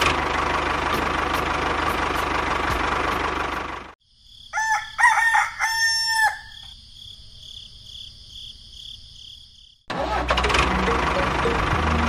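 A small engine running steadily cuts off abruptly about four seconds in. Then comes a loud, drawn-out animal call, rising and then holding for about a second and a half, over a steady high buzz. The engine cuts back in suddenly near the end.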